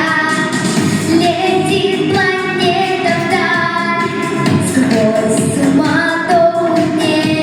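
A female voice singing a song in long held notes over instrumental accompaniment.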